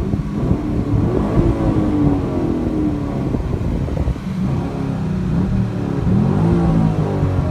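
Camaro SS's LS3 6.2L V8 running under way, its note climbing and then easing off twice.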